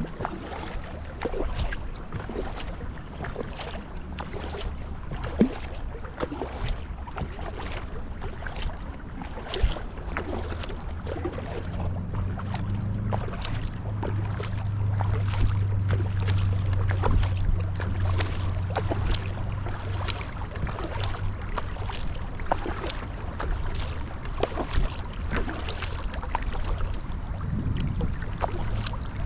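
Kayak paddling: double-bladed paddle strokes dipping and splashing in calm river water in a steady rhythm, about one to two strokes a second, over a low rush of wind and water. A low hum rises in the middle and fades again.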